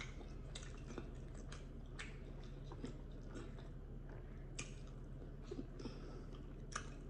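Close-up chewing and lip smacking while eating a chicken wing: a string of short, irregular wet clicks and smacks over a faint steady low hum.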